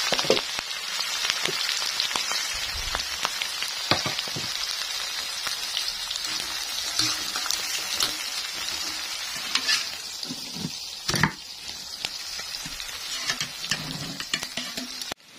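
Sliced shallots, chillies and other spices sizzling steadily in hot oil in a wok, being stirred with a metal utensil that clinks and scrapes against the pan every few seconds. The sizzle eases a little after about ten seconds.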